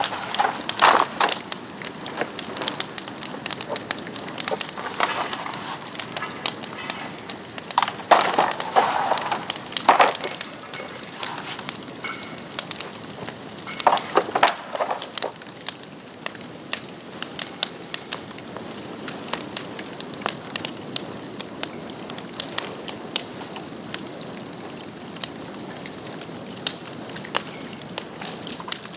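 Bamboo burning on a bonfire, crackling with a dense run of sharp pops and snaps. The loudest clusters come about a second in, at around eight to ten seconds and at around fourteen seconds, and the popping thins out in the second half. A thin high whistle runs from about ten to eighteen seconds.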